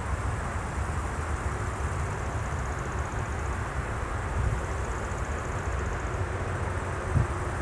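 Trijet airliner's jet engines running steadily: a low rumble with a faint high whine, with a few brief low thumps near the end.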